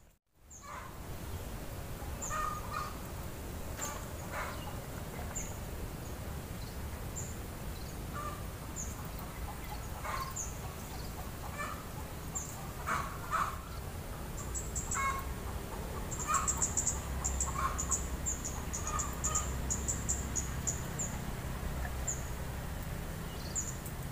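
Birds calling: short, very high chirps that come thick and fast in quick runs in the second half, with scattered lower calls, over a steady low rumble.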